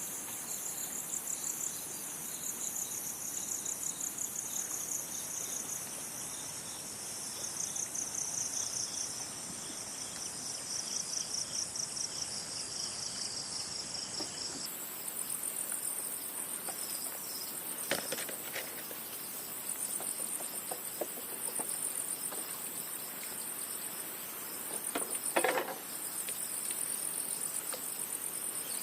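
Chorus of crickets or similar insects, a high-pitched pulsing trill that runs without a break and shifts abruptly about halfway through. A sharp knock sounds about two-thirds of the way in, and a louder clatter near the end.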